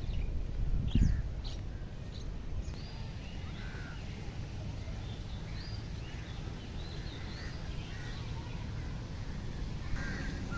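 Several birds chirping and calling in short, scattered notes over a steady low outdoor rumble, with a brief thump about a second in.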